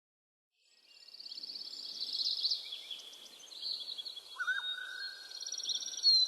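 Birds chirping and calling, with rapid high trills and short sweeping chirps, joined about four seconds in by a long steady whistle; it starts after a second of silence.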